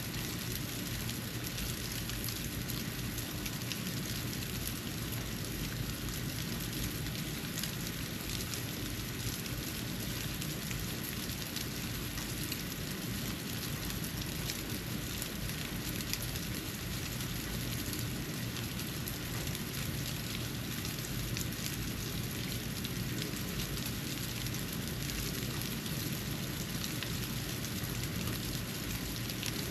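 Snow falling on a porch: a steady soft hiss with many faint ticks of flakes landing, over a low steady rumble.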